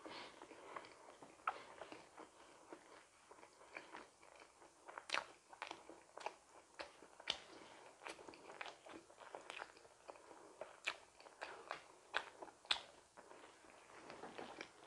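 Close-miked mouth sounds of someone eating a donut: chewing and biting, with many small, sharp, irregular clicks.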